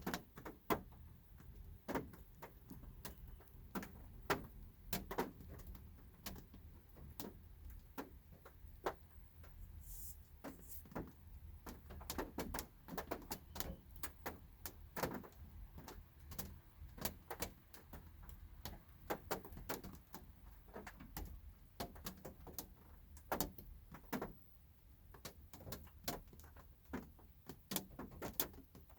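Light rain heard from inside a car: scattered raindrops tapping irregularly on the roof and glass, several a second, some louder than others, over a faint low rumble.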